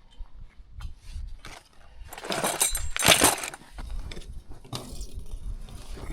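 Hand-held fence wire tensioner being worked on high-tensile fence wire: metal clicking and clinking, with a loud scraping rattle about two to three and a half seconds in, as the wire is drawn tight.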